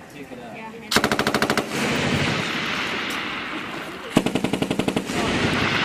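Belt-fed machine gun firing two short bursts of automatic fire, about a second in and again about four seconds in. Each burst is a rapid string of shots followed by a long rolling tail of sound.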